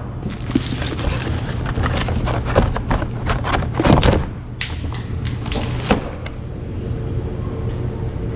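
Irregular clicks, knocks and handling noises over a steady low hum, with the strongest knocks about two and four seconds in.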